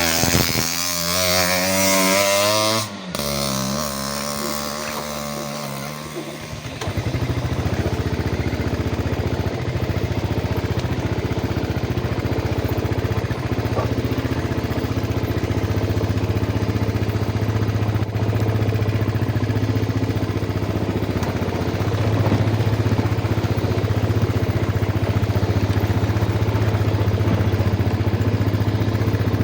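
Yamaha Jupiter MX motorcycle's single-cylinder four-stroke engine running steadily under way. It comes in louder and even about six seconds in and holds a constant pitch.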